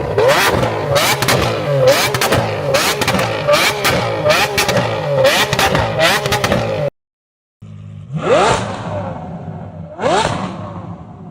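Supercar engine revved hard again and again through its exhaust, its pitch sweeping up and down with sharp cracks. A cut to silence follows; then a second car is revved three times, each rev rising quickly and fading.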